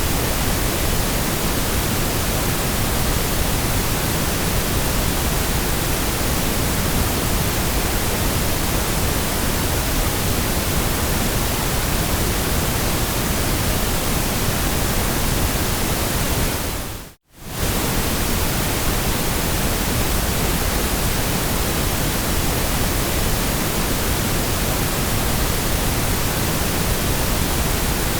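Steady white noise, an even hiss spread across all pitches at a constant level. About seventeen seconds in it fades out to near silence for a fraction of a second and comes straight back.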